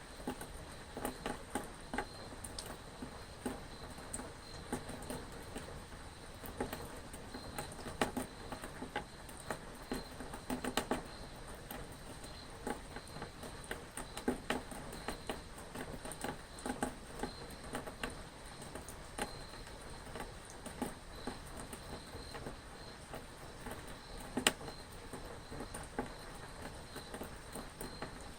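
Rain pattering, with many irregular drops tapping sharply one after another over a steady soft hiss.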